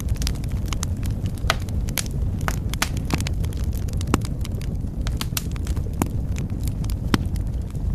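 Wood fire burning in a fireplace, with irregular sharp crackles and pops over a steady low rush of flame; a few louder pops stand out.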